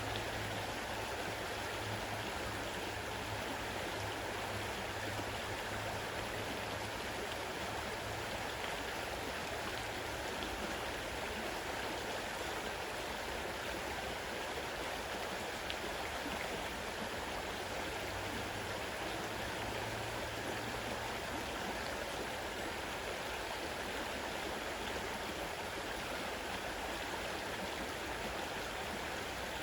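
River water running fast over its bed: a steady, even rush of flowing water.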